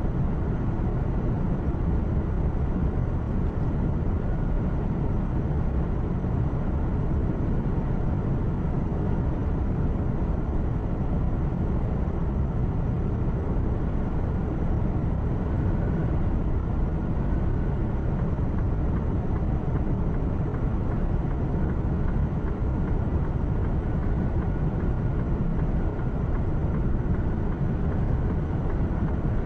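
Truck cab interior while driving: a steady engine drone and road noise, heaviest in the low end, with no changes or distinct events.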